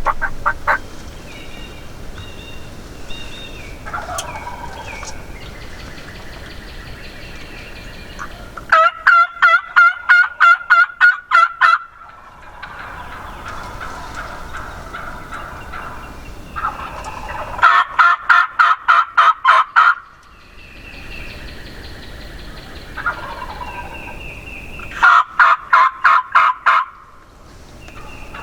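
Turkey calling: three loud bursts of quick, rhythmic notes, each lasting a few seconds, with fainter songbirds whistling in between.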